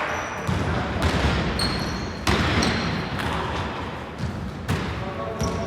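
Basketball bouncing on an indoor gym floor in a run of irregular thuds, with short high squeaks of sneakers on the court between them.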